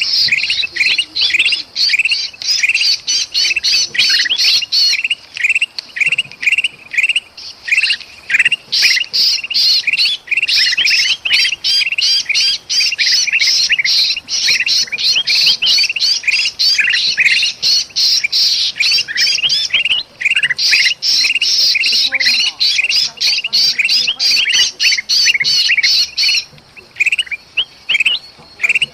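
Rapid, harsh, agitated bulbul calls, many notes a second, with short breaks about six seconds in, around twenty seconds and near the end: kutilang emas bulbuls mixed with the distress calls of a trapped sooty-headed bulbul (kutilang kejepit), the kind of alarm chorus used to lure birds.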